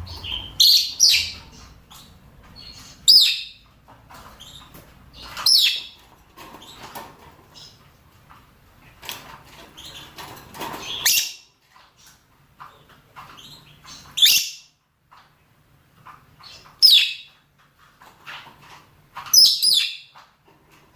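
Lovebirds giving sharp, high-pitched shrieking contact calls, one every two to three seconds, with softer chattering in between: mating calls of rosy-faced and Fischer's lovebirds.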